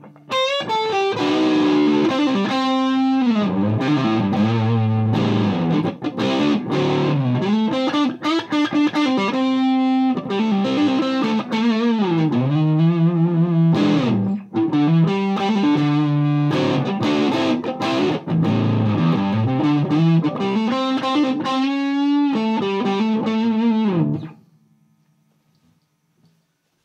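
Electric guitar, a Gibson Les Paul, played through a Mesa Boogie Dual Rectifier tube amp and a Marshall 1960A 4x12 cabinet with an overdriven tone: a continuous passage of moving notes and chords that stops and rings out about 24 seconds in.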